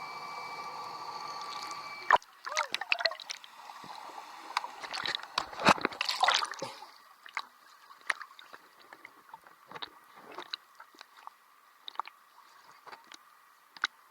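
A steady hum stops abruptly about two seconds in. Irregular splashing and sloshing of water follows, with sharp clicks and knocks, then dies down to a few scattered faint ticks.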